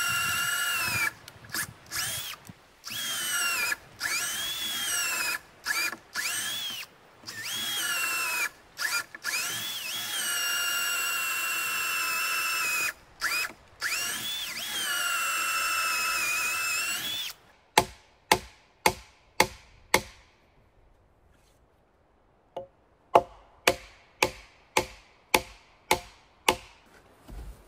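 Cordless drill driving screws into wood: a motor whine that starts and stops again and again, its pitch sagging under load and picking back up. After that, two runs of sharp knocks at about three a second.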